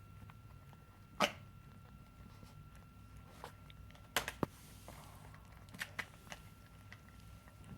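Quiet room with a faint steady high hum, broken by a handful of short sharp clicks or taps: the loudest about a second in, two close together about four seconds in, and two more near six seconds.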